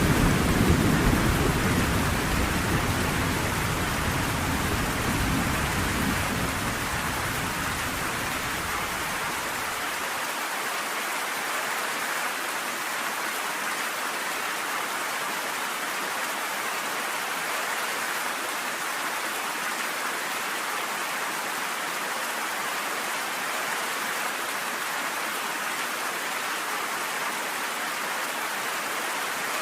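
Steady heavy rain, with a low thunder rumble at the start that fades away over the first ten seconds or so.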